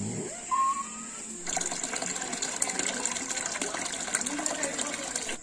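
Water gushing and splashing, starting abruptly about a second and a half in, after a brief rising chirp.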